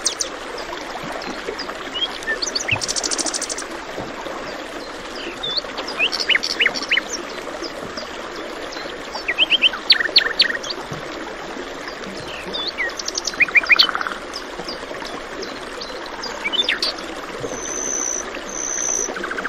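Several birds chirping and trilling over a steady rush of flowing water, with bursts of quick trills about halfway through and two short high whistles near the end.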